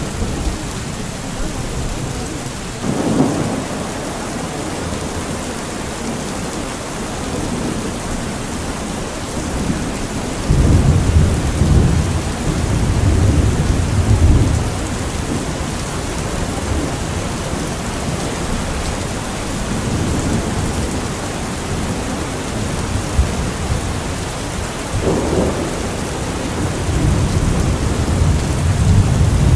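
Steady rain with rolls of low thunder: one long rumble about a third of the way in and another building near the end.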